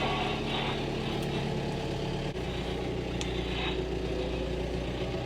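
Farm tractor engine running steadily, its low note changing suddenly about two seconds in.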